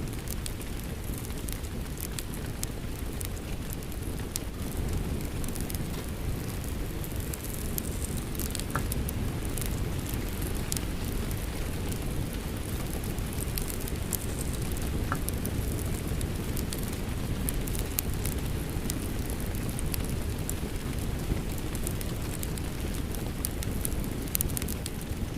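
Rain falling together with a wood fire crackling in a fireplace: a steady, even rushing with sharp crackles and pops scattered irregularly throughout.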